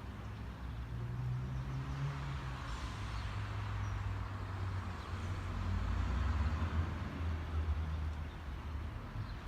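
A car engine running at low revs, its hum dropping slightly in pitch about three seconds in, over a broad rushing noise that swells and fades.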